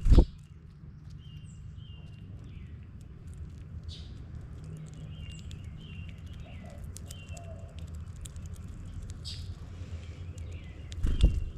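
Small birds giving short, high chirps every second or so over a steady low rumble. A loud thump comes just at the start and another near the end.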